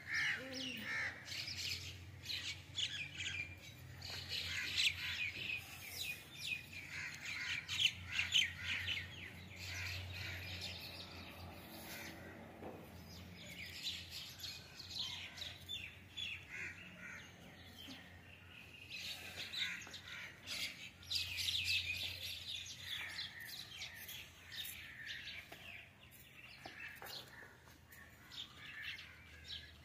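Small birds chirping in spells of quick, busy twittering that come and go, with quieter stretches between.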